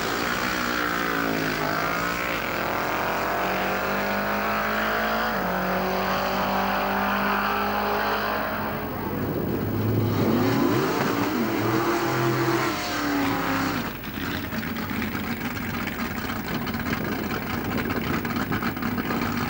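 Drag-race car engines at full throttle: one engine's pitch climbs steadily for about eight seconds as it accelerates. About nine seconds in, an engine revs up and down in short swells, and from about fourteen seconds in a rougher engine runs steadily at a lower pitch.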